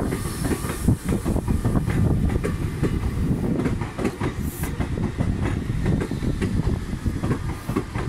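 Meitetsu Panorama Super electric train rolling past as it pulls away, a steady low rumble with the wheels clicking over rail joints. The sound eases off a little near the end.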